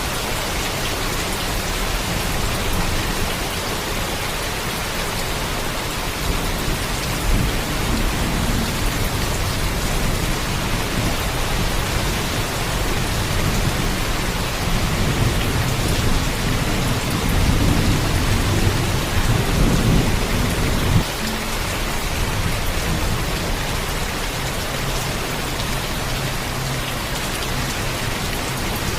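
Steady heavy rain, with a low thunder rumble that swells over several seconds past the middle and then cuts off suddenly.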